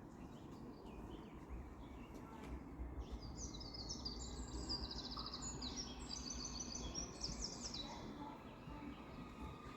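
A small songbird singing a fast, twittering phrase of rapid high notes for about five seconds, starting a few seconds in. Under it runs a steady low background rumble.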